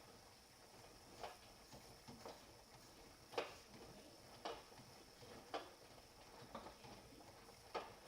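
Hotpoint washing machine partway through a quick 30 °C wash, mostly quiet, with a faint click about once a second.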